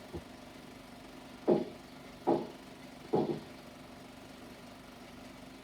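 Three short dull knocks, a little under a second apart, over the steady hum of a worn 16mm film's optical soundtrack.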